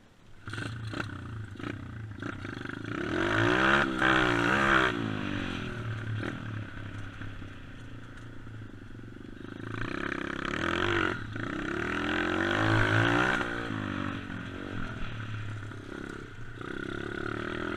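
Dirt bike engine revving up and down as it is ridden. It climbs in pitch twice, about three to five seconds in and again around ten to thirteen seconds in.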